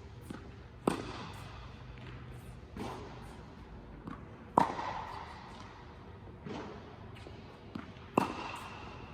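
Tennis balls fed by a ball machine and struck with a racket: three sharp hits about three and a half seconds apart, with softer thuds in between from balls launching or bouncing.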